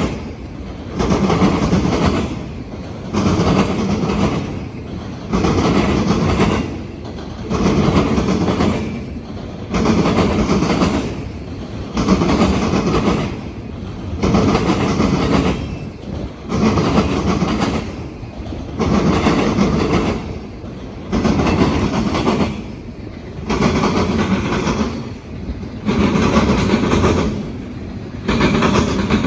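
Freight train's wheels pounding over railroad diamond crossings, car after car: a loud clattering burst about every two seconds as each car's trucks hit the crossings, with short quieter gaps between.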